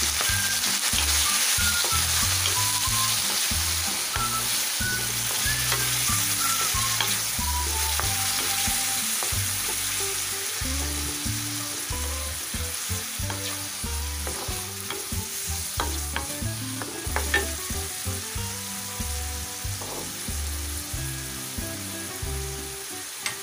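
Chopped tomatoes sizzling and frying in hot desi ghee in a kadai, stirred and scraped with a wooden spatula. The sizzle slowly dies down, with a few sharper knocks of the spatula against the pan in the second half.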